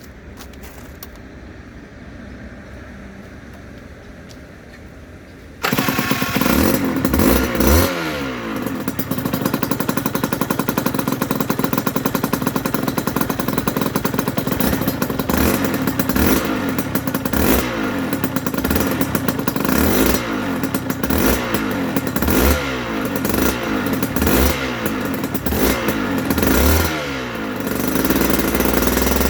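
After about five quiet seconds, a 2008 Aprilia RS125's 125 cc single-cylinder two-stroke engine comes in suddenly and is blipped repeatedly, the revs falling back after each blip about once a second. Near the end it settles to a steadier run.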